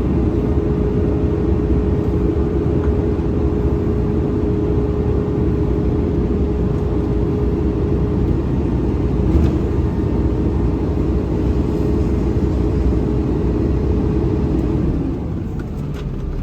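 Garbage truck running, heard from inside the cab: a steady low rumble with a steady whine on top, which fades out and the overall sound drops slightly near the end.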